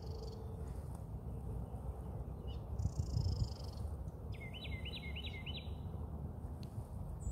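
Outdoor ambience with a steady low rumble; about four and a half seconds in, a small bird calls a quick run of about six rising chirps, and a high thin trill sounds briefly around three seconds in.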